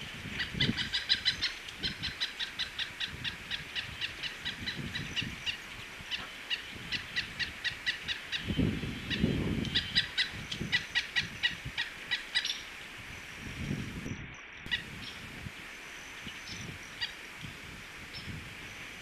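Pileated woodpecker pecking at a suet feeder: a long run of sharp taps, about three to five a second, that stops about two-thirds of the way through. Occasional low thumps come in between.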